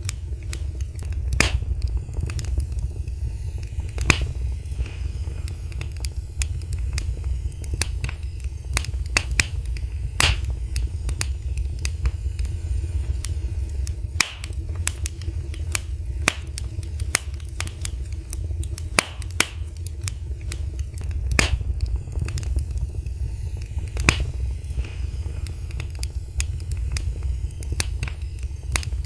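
Wood fire in a fireplace crackling: irregular sharp pops and snaps at uneven intervals, a few stronger than the rest, over a steady low rumble.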